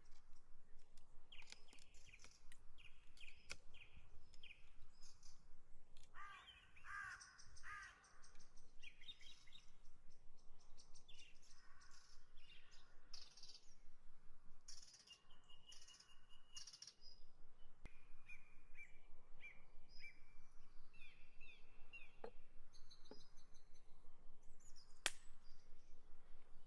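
Wild birds calling and chirping, with a few lower, harsher calls about six to eight seconds in.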